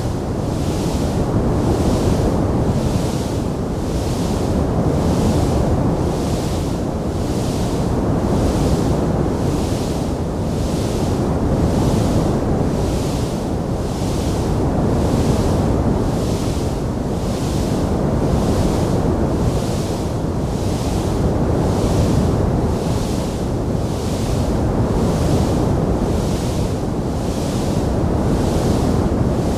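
Wood fire burning in a fireplace: a steady low rushing roar with a hiss that swells and fades at a regular pace, about every second and a half, and no distinct crackles or pops.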